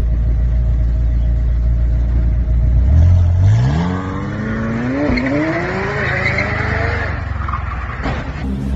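Car engine running with a low rumble, then from about three seconds in revving up hard in a rising pitch as the car accelerates, with a brief dip about five seconds in and tyre noise over it.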